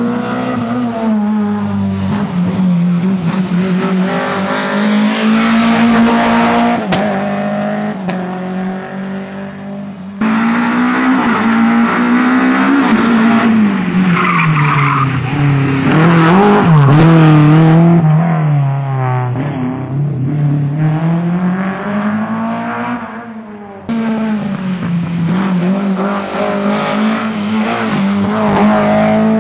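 Lada VFTS rally car's engine running hard at high revs, the pitch climbing and dropping again and again as it accelerates and backs off, with tyre noise. The sound jumps abruptly twice, about a third of the way in and again near the end.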